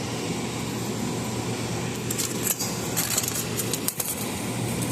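Old Trane air handler running with a steady hum, back in operation on its new breaker. Light metallic clinks and jingling from about two seconds in, lasting a second or two.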